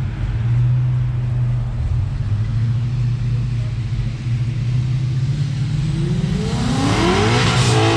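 Car engine idling with a steady low drone, then revving hard near the end, its pitch climbing quickly.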